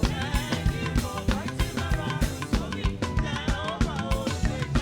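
Live band playing upbeat Nigerian gospel praise music: a drum kit keeps a steady, even beat under melodic instrument lines.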